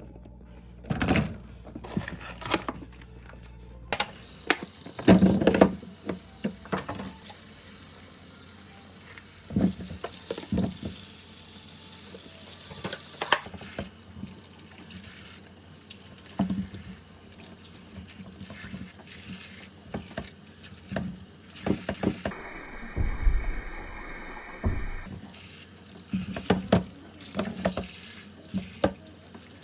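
Steady running water with frequent short knocks and clinks over it.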